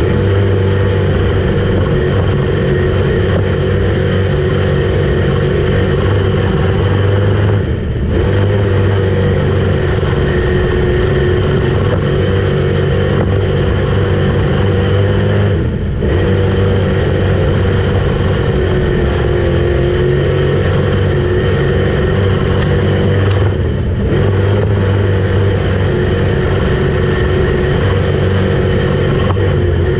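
Street stock dirt race car's engine running hard at sustained throttle, easing off briefly about every eight seconds.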